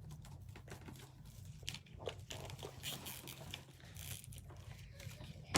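Faint rustling and small scattered clicks of wreath-making materials being handled, with one sharper click near the end, over a low steady hum.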